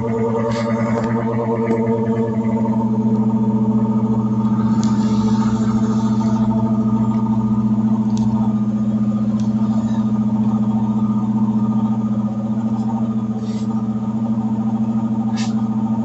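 Electrolux LT10B washing machine giving off a loud, steady electrical hum, with a few faint clicks and a short hiss about five seconds in.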